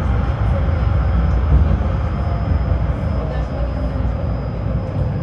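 Tram running between stops, heard from inside the passenger car: a steady low rumble of the wheels on the rails, with a faint high steady whine.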